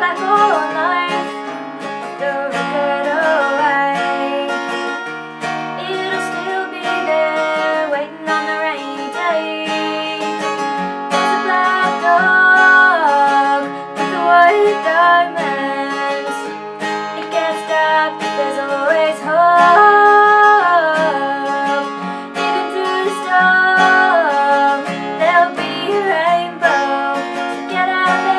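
Acoustic country music: strummed acoustic guitar under a sustained, gliding melodic lead line.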